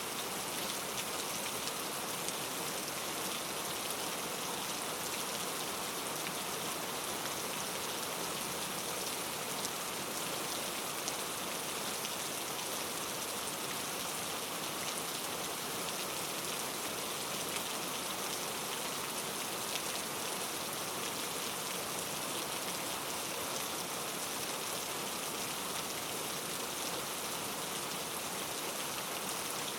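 Steady rainfall: a dense, even hiss of rain with fine drop patter on a surface.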